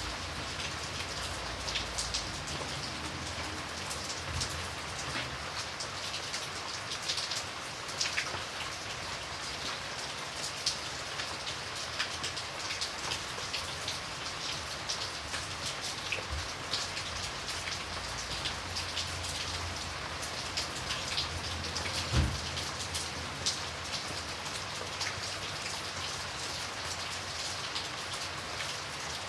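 Steady rain with many individual drops tapping on window glass over an even hiss. One louder low thump comes about three-quarters of the way through.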